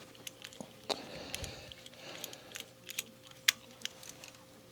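Small metal parts being handled and fitted by hand: a scatter of light clicks and clinks with brief rustling. The sharpest click comes about three and a half seconds in, over a faint steady hum.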